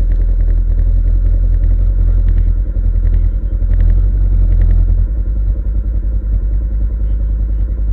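Off-road vehicle engine running steadily with a deep rumble, the loudness easing a little about five seconds in, with scattered light clattering over it.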